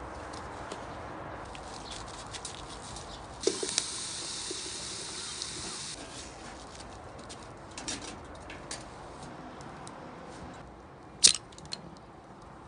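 Scattered light clicks and knocks over a steady background hiss, with a brief high hiss about three and a half seconds in and one sharp, loud click near the end.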